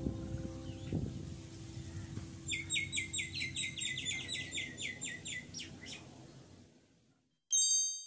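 A bird singing a fast trill of short repeated chirps, about six a second, over a low background that fades away. A short bright chime rings near the end.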